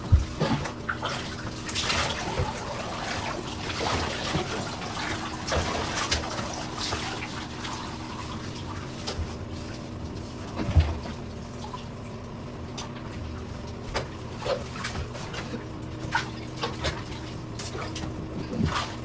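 Bathwater splashing and dripping in a bathtub as a dog is washed, in irregular splashes, with a sharp knock at the start and another about eleven seconds in, over a steady low hum.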